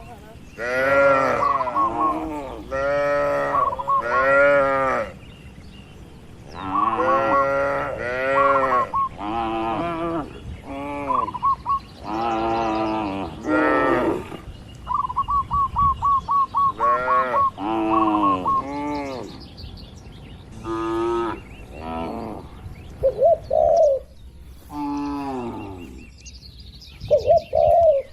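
Cattle mooing over and over, a long series of separate calls that vary in pitch and length, some drawn out and some short.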